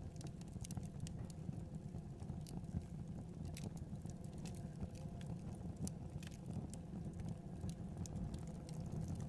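Wood fire burning in a fireplace: irregular small crackles and snaps over a steady low rumble of the flames.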